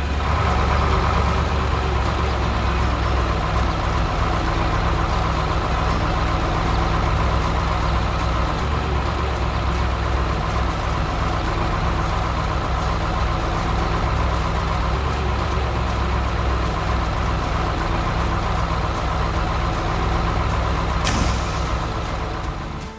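Heavy vehicle engine running steadily at a low pitch, with a hiss coming in near the end.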